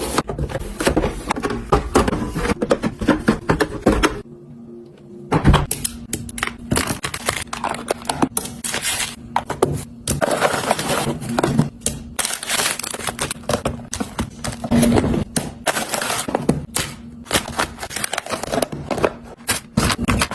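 Food packages and containers being handled and put away in a refrigerator: a dense run of crinkles, taps and clicks, with a brief lull about four seconds in.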